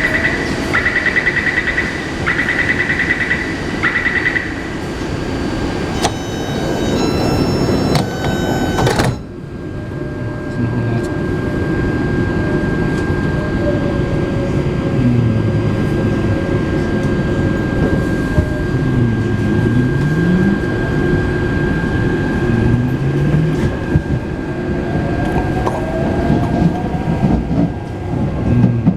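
Taipei Metro C381 train at departure: rapid door-warning beeps, then a short stepped chime, and the sliding doors shut about nine seconds in. The train then pulls away, its software-modified traction inverter humming in low tones that rise and fall in steps over a steady high whine.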